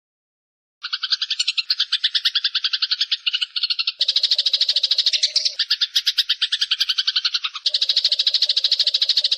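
Eurasian tree sparrow giving a long, rapid chattering call, a fast even rattle of many short notes a second. It starts abruptly about a second in and shifts slightly in tone twice, as if joined from separate takes.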